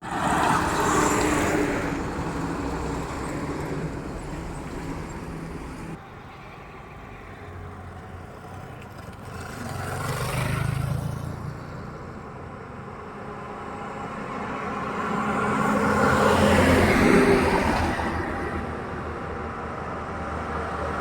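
Road traffic: engines running and vehicles passing one after another, each pass swelling up and fading. There are three loud passes, at the start, about halfway through and near the three-quarter mark, and the level drops suddenly about six seconds in.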